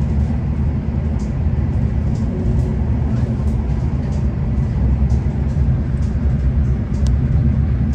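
Steady low rumble of a V/Line passenger train running, heard from inside the carriage, with faint irregular clicks and rattles over it.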